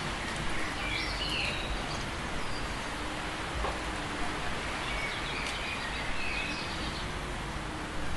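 Mountain nature ambience: a steady rushing noise like wind or running water, with a bird calling in short chirps about a second in and again in a longer run of chirps from about five to seven seconds in.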